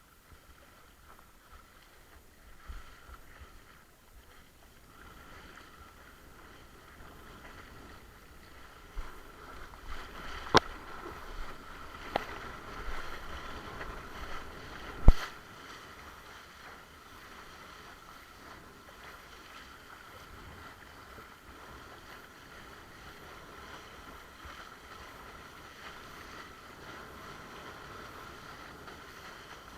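Water rushing and slapping against a windsurf board while sailing, with steady wind noise. Through the middle the slapping gets busier, with three sharp knocks, the loudest about halfway through.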